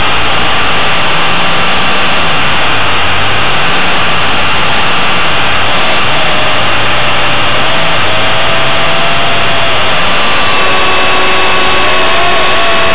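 WLtoys V913 RC helicopter in flight, heard from a camera mounted on it: loud, steady motor whine and rotor noise, with a low hum that rises and falls in pitch.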